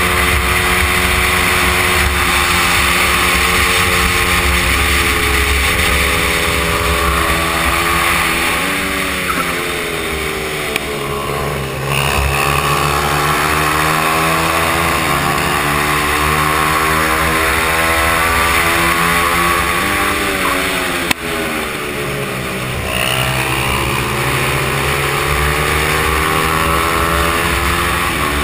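Stock Honda XR100 mini bike's air-cooled single-cylinder four-stroke engine at high revs on track, its pitch dropping twice as the throttle is closed and then climbing again as it accelerates, with steady wind noise. A single sharp click about three quarters of the way through.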